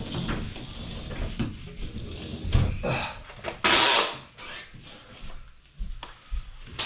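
Clunks, knocks and scraping as a heavy Whirlpool washing machine is handled and shifted on its new feet, with a louder rasping scrape about four seconds in.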